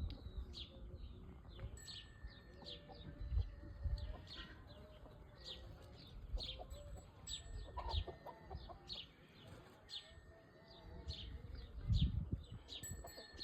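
An orthopteran insect chirping in short, evenly spaced strokes, about one and a half to two a second. Domestic chickens cluck lower down, and there are intermittent low rumbles.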